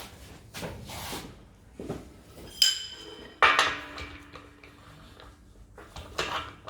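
Metal clanks and clinks as tools and steel exhaust tubing are handled. There is a sharp ringing clink about two and a half seconds in, then a louder clatter a moment later that rings on briefly.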